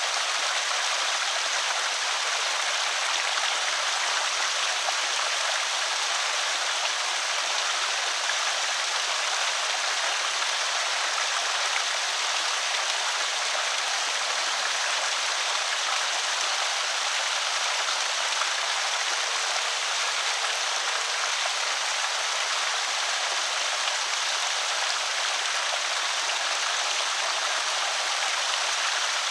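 Water pouring steadily over a small creek spillway, an even rushing hiss with no breaks.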